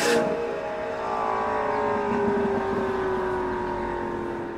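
McLaren 650S twin-turbo V8 through an Armytrix titanium exhaust, heard as the car drives off: one steady engine note slowly falling in pitch and gradually fading.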